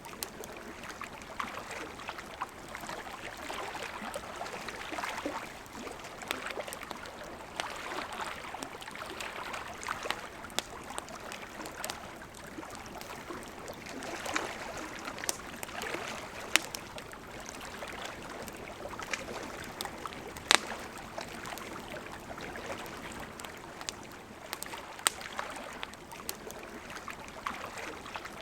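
A river flowing steadily, with a wood campfire crackling over it in sharp, scattered pops, the loudest about twenty seconds in.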